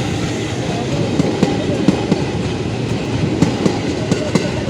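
Train running through the station, its wheels clacking and knocking over the rails in many irregular clicks over a steady rumble.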